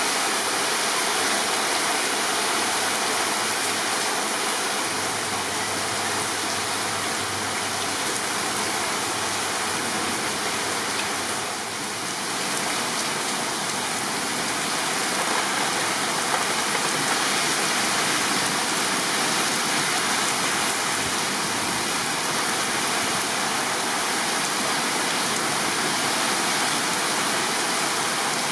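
Torrential thunderstorm rain pouring steadily, a dense even hiss that eases slightly about twelve seconds in.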